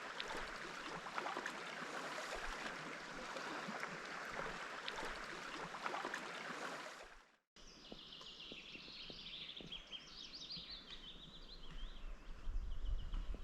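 A steady rushing noise with scattered faint ticks stops abruptly a little past halfway. It is followed by small birds singing repeated high chirping phrases over quiet surroundings.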